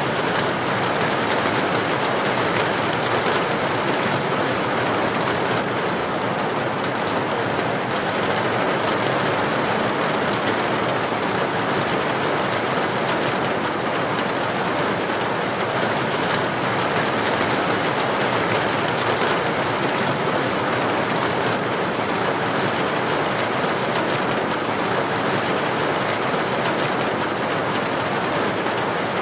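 Heavy rain pouring on a street, an even, unbroken hiss with no thunder or other events standing out.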